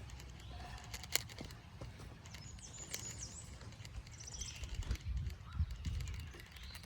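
Songbirds chirping in short high calls, over a low rumble and scattered clicks that grow loudest about five seconds in.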